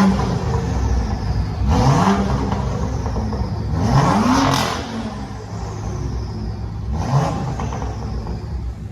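Modified car engine revved in short blips about four or five times, the pitch climbing and dropping back to idle each time.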